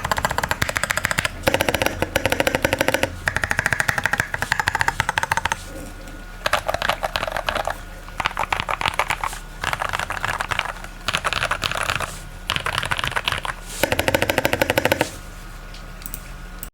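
Fast typing on a modded Iqunix OG80 mechanical keyboard with lubed Novelkeys linear switches in an aluminium plate: dense runs of rapid keystroke clacks in bursts of a second or two, separated by short pauses.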